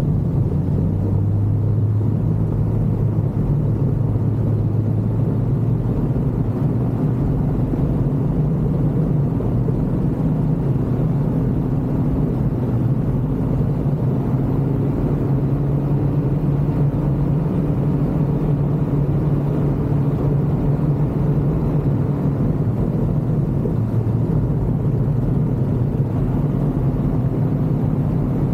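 Ultralight aircraft engine running steadily in flight, a continuous drone whose pitch shifts slightly now and then.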